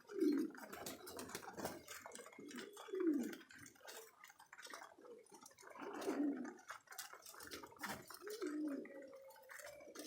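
Domestic pigeons cooing in a loft: several low, drawn-out coos, some with a falling pitch, over many light clicks and taps.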